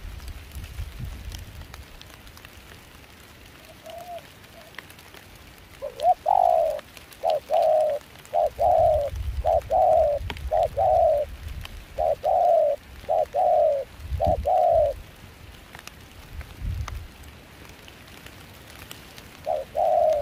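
Spotted dove cooing: a faint note, then a run of about a dozen short coos in quick phrases that stops about three-quarters of the way through, over low wind noise on the microphone and light rain.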